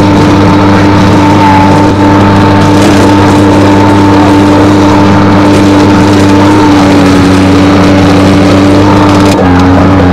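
Skid steer's diesel engine running steadily at high revs, its pitch dipping slightly about nine seconds in as it takes on load.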